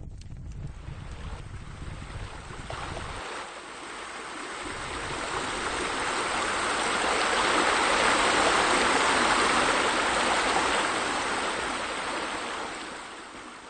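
Running, splashing water with a steady hiss. It swells from about three seconds in, is loudest in the middle and fades near the end.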